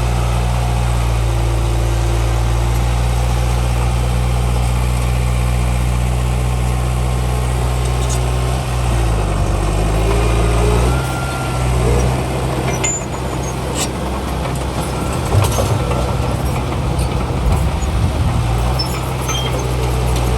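Heavy diesel engines of earthmoving machinery running with a steady low drone. The pitch drops and comes back up about nine to eleven seconds in, and a few sharp knocks follow in the second half.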